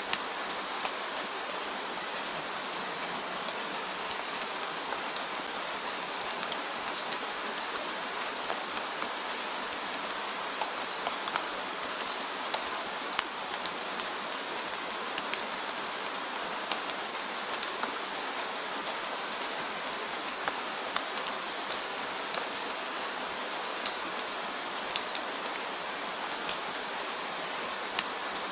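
Steady rain with many scattered sharp drop ticks.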